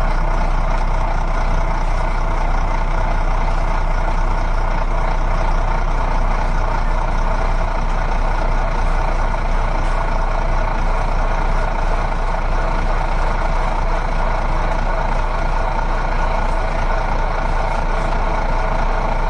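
Truck engine running steadily: an even, unchanging drone with no revving.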